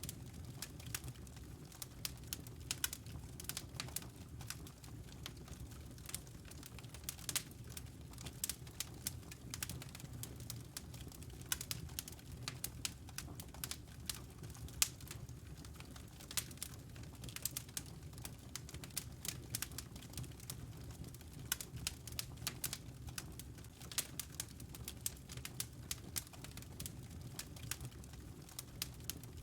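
Wood fire burning in a fireplace: a steady low rumble of the flames with irregular sharp crackles and pops, many each second.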